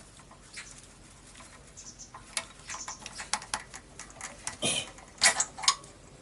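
Irregular light clicks, taps and brief scrapes of small metal parts and hand tools being handled while a motorcycle's front brake is worked on, thickest and loudest near the end.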